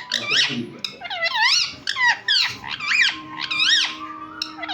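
Pet parrot making a quick series of shrill squeaky calls between its talking, about two a second, each call rising and falling in pitch.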